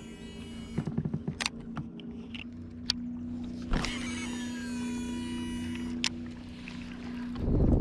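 A fishing cast on a baitcasting reel: the spool whirs in a falling whine as the line pays out. It is followed by a steady whir as the reel is cranked to retrieve the lure. Wind buffets the microphone near the end.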